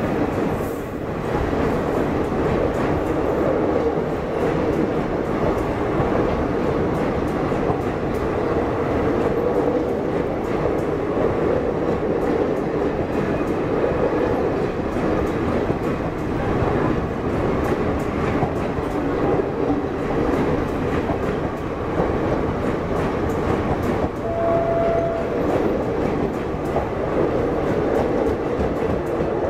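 Express train's passenger coaches rushing past at speed close by: a steady loud rumble of wheels on rail with a clatter of wheels over rail joints. A brief steady tone sounds for about a second three-quarters of the way through.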